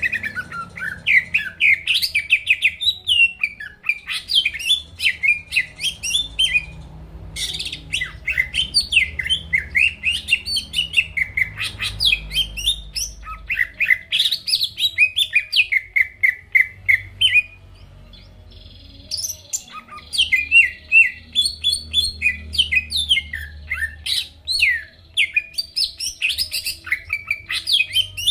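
Cucak ijo (green leafbird) in full song: long runs of rapid, varied chirps and whistles, broken by two short pauses.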